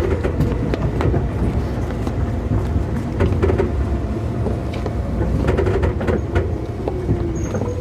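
Running noise inside a Keikyu 2000 series electric train car at low speed: a steady low rumble from the wheels and bogies, with irregular sharp clicks as the wheels cross rail joints. A faint tone falls in pitch near the end.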